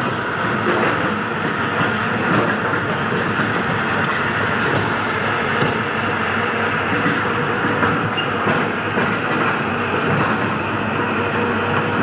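Train running on the rails: a steady rumble of wheels on track that holds even throughout.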